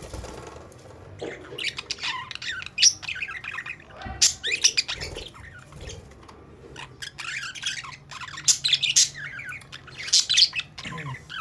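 A cage of budgerigars chattering, many short chirps and squawks overlapping, with a brief lull about six seconds in.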